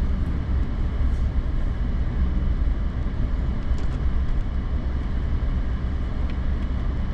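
Steady low rumble of a Toyota Tundra pickup driving on a snow-covered road, heard inside the cab.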